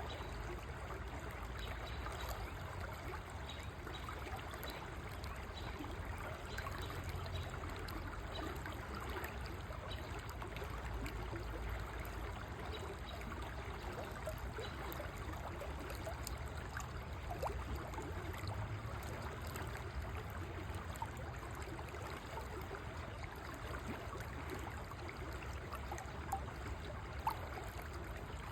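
River water flowing and babbling steadily, with a low rumble underneath.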